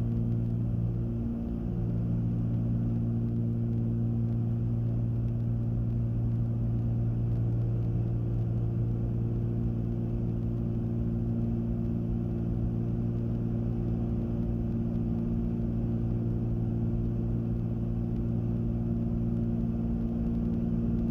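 Steady cockpit drone of a Cessna 310Q's twin piston engines and propellers in flight, a low even hum with several constant tones, the engines at reduced power for the landing pattern.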